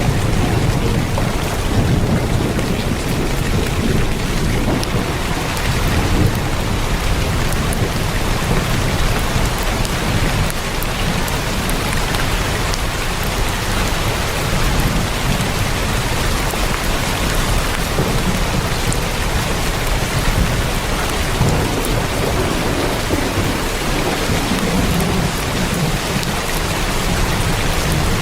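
Heavy rain drumming steadily on a tin roof, a dense even patter with a deep low rumble underneath.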